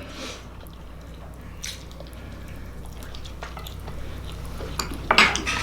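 A lime squeezed over an enchilada: soft squishing and dripping juice with small scattered clicks, and a few louder clicks near the end.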